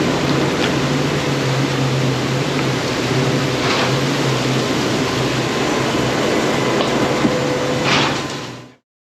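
Steady hiss of heavy rain with a vehicle engine humming low underneath and a few brief knocks, cutting off abruptly near the end.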